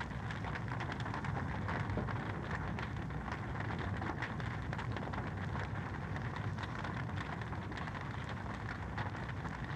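Wood fire crackling steadily in a fireplace: a dense run of small pops and ticks over a continuous low rumble of burning.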